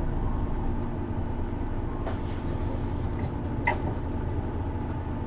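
Isuzu Erga city bus diesel engine idling steadily, heard inside the passenger cabin. There is a short hiss about two seconds in and a sharp click a little before four seconds.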